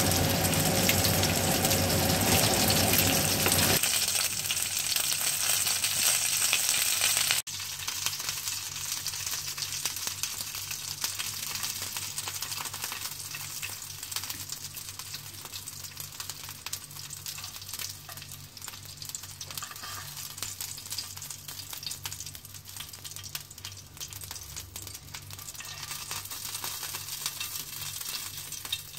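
Whole quails frying in hot oil in a frying pan, a steady crackling sizzle. It drops abruptly to a much quieter sizzle about seven seconds in.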